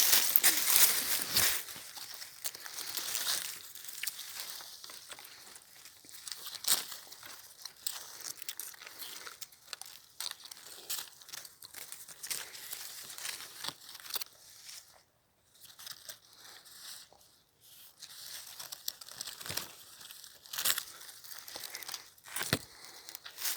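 Dry leaves and twigs crunching and crackling underfoot in irregular steps, loudest at the start, with two brief pauses in the middle.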